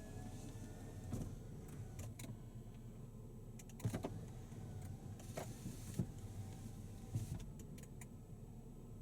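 Scattered clicks and knocks from handling the fittings of a car, over a low steady hum.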